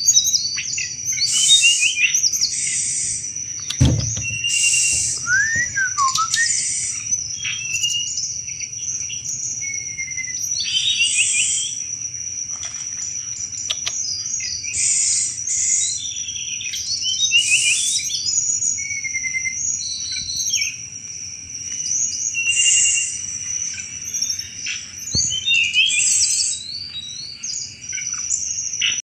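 A tledekan gunung (a small blue flycatcher kept as a songbird) singing in short, rapid chattering phrases, the 'cetrekan' style of song, repeated every second or two. A steady, thin, high-pitched whine runs underneath it.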